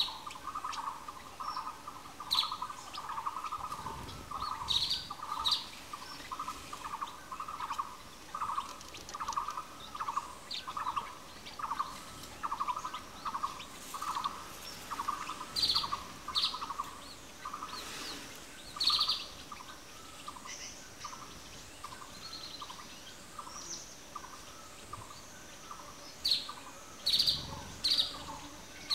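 Wild birds calling: one low note repeated steadily, a little under twice a second, with short high chirps scattered over it in small clusters.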